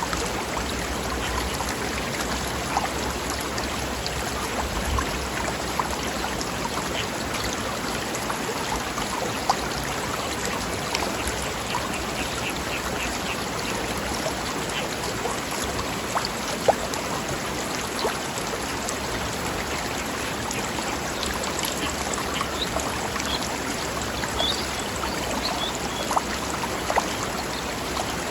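Mountain stream flowing over rocks: a steady rush of running water broken by frequent small splashes and gurgles.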